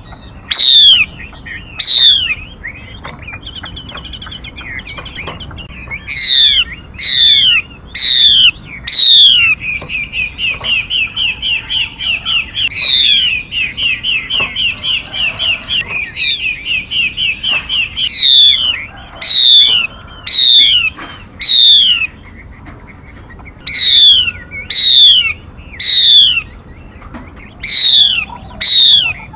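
Recorded songbird calls used as a trapping lure, given in the title as the female 'mi' bird: sharp, high notes that sweep steeply down in pitch, repeated in clusters of two to four. From about ten to seventeen seconds in, a steady chattering run of about four short notes a second.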